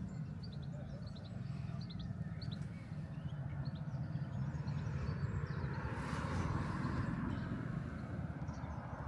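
Outdoor ambience: a steady low rumble, with small birds chirping several times in the first couple of seconds and a soft hiss swelling briefly about six seconds in.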